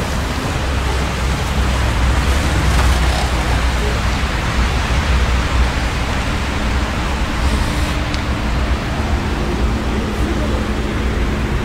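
Steady outdoor noise of rain and wind on the microphone: a dense, even hiss over a heavy low rumble.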